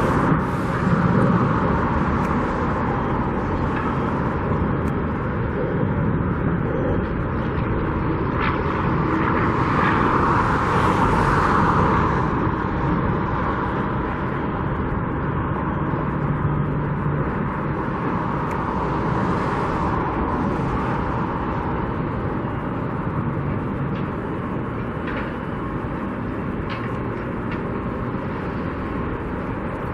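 Steady road-traffic noise, with passing vehicles swelling up about ten seconds in and again about twenty seconds in.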